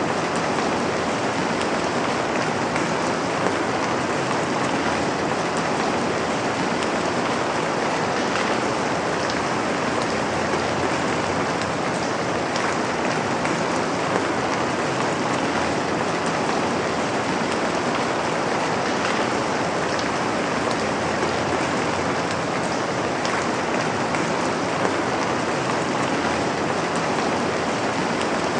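Steady rain falling, an even hiss of many drops with faint scattered drop ticks. It does not rise or fall.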